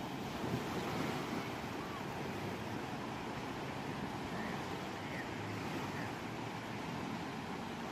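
Ocean surf: waves breaking and washing in a steady, unbroken wash of noise.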